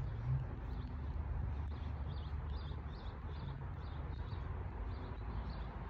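A small bird chirping in a quick, even series of short high notes, over a low rumble of wind on the microphone.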